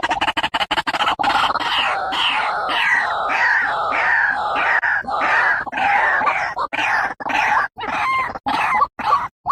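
White-breasted waterhen (ruak-ruak) calling loudly: a fast stuttering run of notes, then repeated calls about twice a second that break into shorter, spaced-out calls near the end.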